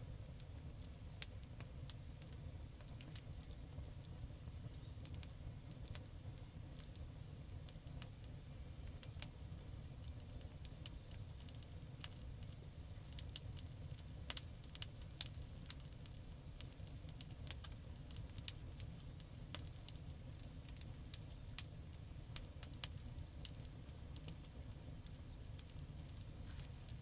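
Campfire crackling: irregular sharp pops and snaps over a steady low rumble, with the pops coming thickest and loudest in the middle.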